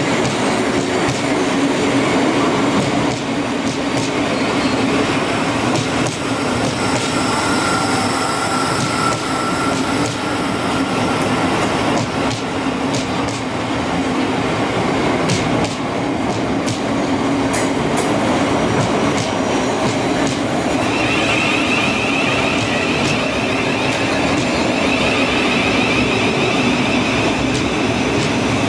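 Thameslink Class 700 Desiro City electric train running along the platform: a continuous rumble of wheels on rail with scattered clicks over the rail joints. A high steady whine joins about three quarters of the way through.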